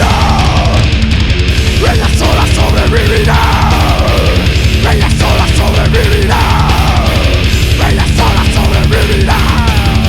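Thrash-death metal band recording: distorted guitars, bass and fast drums, with a falling guitar slide about every three seconds.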